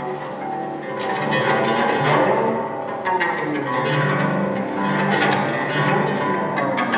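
Live instrumental music: a guzheng (Chinese zither) playing rapid plucked notes that ring on, over sustained low string notes.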